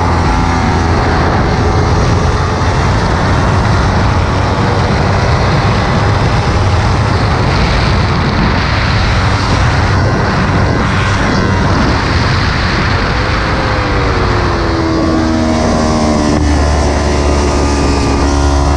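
Kawasaki Ninja 300's parallel-twin engine running hard on track, under heavy wind rush on the onboard camera's microphone. In the last few seconds the engine note drops and then climbs again.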